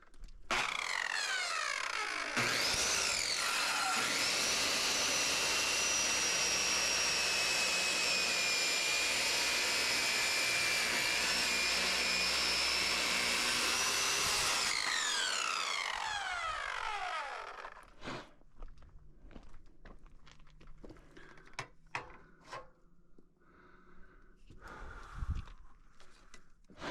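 Electric power saw spinning up, running steadily for about twelve seconds, then winding down as the blade coasts to a stop. Scattered knocks and handling noises of lumber follow.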